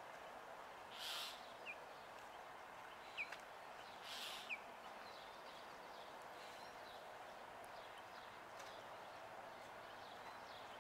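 Faint outdoor background with a steady low hiss, a few short high bird chirps and two brief buzzy trills about one and four seconds in.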